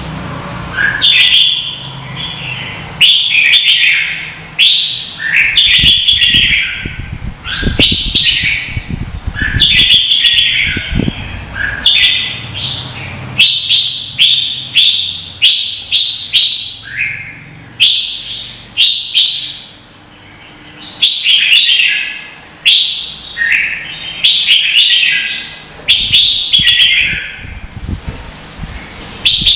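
Red-whiskered bulbul singing a rapid series of short, bright, warbling phrases, about one a second, with a brief pause partway through.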